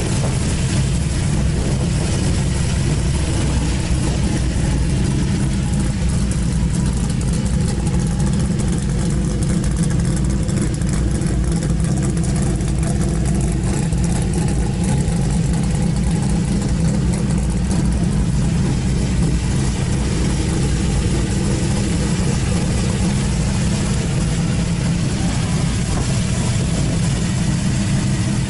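A car engine idling, a steady low running sound that holds the same pitch and level throughout.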